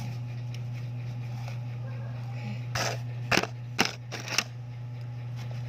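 Handling noise from small objects being rummaged through: a brief rustle, then three sharp clicks in quick succession about three to four and a half seconds in, over a steady low hum.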